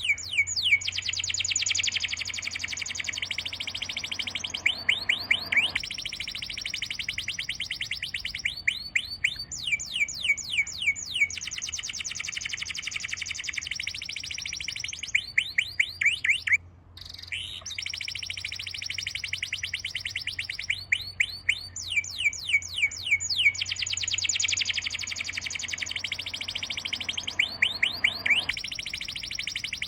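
Birds chirping and trilling in rapid, continuous runs of high, quickly falling notes, with a brief break about two-thirds of the way through.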